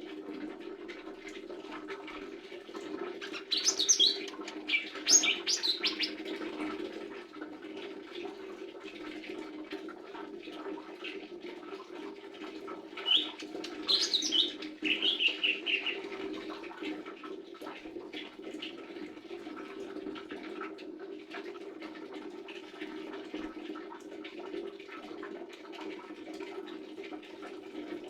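Lesser green leafbird calling in two brief bursts of quick, high chirps and warbles, about three seconds in and again about thirteen seconds in, over a steady low background rush.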